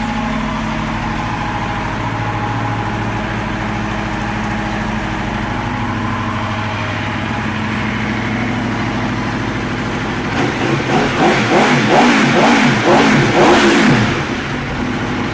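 Aprilia RSV4 R APRC's V4 engine idling steadily, then revved in a quick series of throttle blips for about three and a half seconds before settling back to idle.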